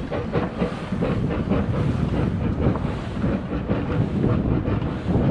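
Wind buffeting the microphone, a rough low rumble that grows louder near the end.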